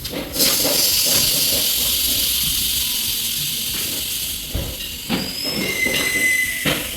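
Compressed air hissing loudly and steadily for about six seconds in a tyre shop. A short squeal and a few knocks come near the end as it cuts off.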